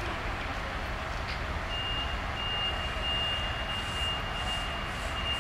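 Departing passenger train rolling out over the station tracks with a steady rumble. About two seconds in, a thin, steady high-pitched squeal sets in and holds, typical of wheel flanges squealing as the carriages take the curve through the points.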